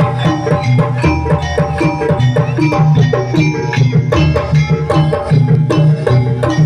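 Live jaranan (kuda lumping) accompaniment music: hand drums with tuned metal gong-percussion playing a fast, even, repeating pattern.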